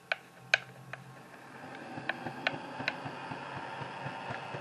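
N-scale 44-ton switcher's small electric motor and gear train running in reverse at DCC speed step 126: a few sharp clicks, then a steady hum with fast ticking that builds up after about a second and a half. The locomotive is only crawling at near-full throttle because one truck's gear is not turning.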